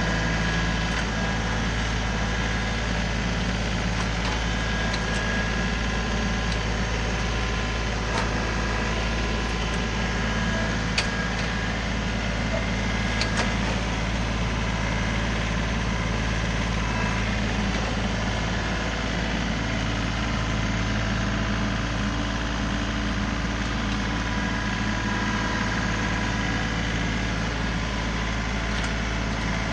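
John Deere 3038E compact tractor's diesel engine running steadily, with a few sharp clicks over it, the loudest about eleven seconds in.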